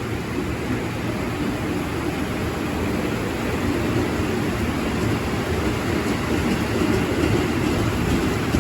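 A train rolling through the station with a steady rumble that grows slightly louder, heard through heavy rain.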